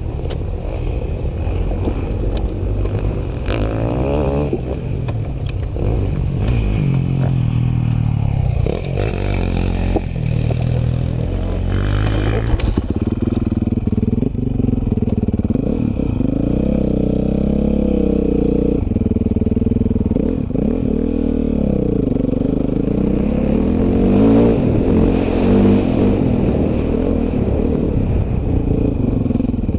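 Off-road dirt bike engines revving up and down, the pitch rising and falling again and again with the throttle.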